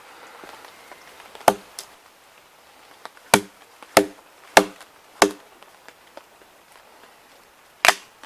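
Firewood being chopped or split with a blade, in sharp strikes that each ring briefly. There is a single strike, then four in a steady rhythm about every two-thirds of a second, then one more near the end.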